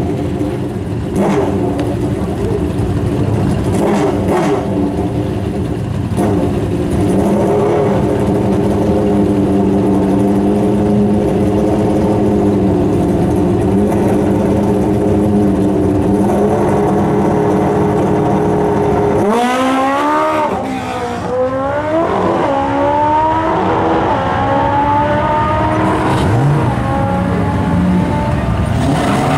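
Turbocharged Toyota Supra's 2JZ straight-six running steadily at the drag-strip starting line, with a few sharp cracks in the first few seconds. About two-thirds of the way in it is revved in quick blips, then held with the revs slowly climbing ahead of the launch.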